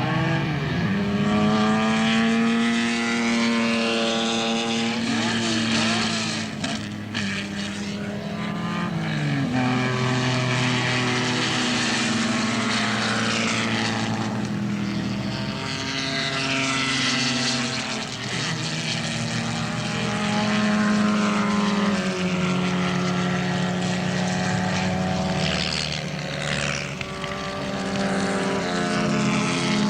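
Racing sports car engines at full throttle, their pitch holding and then dropping or climbing again and again as the cars change gear and pass, with more than one engine heard at once.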